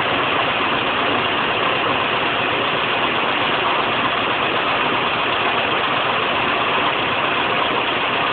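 Air-cooled VW Type 4 2-litre flat-four engine on carburettors, idling steadily.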